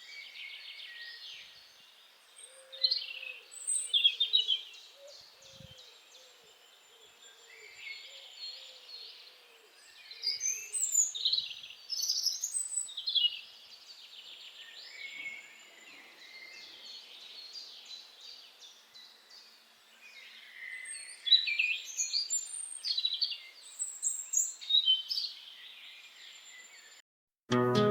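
Several birds chirping and singing in bouts of quick trills, whistles and short calls, with a fainter, lower call repeating through the first several seconds. The birdsong cuts off abruptly shortly before the end.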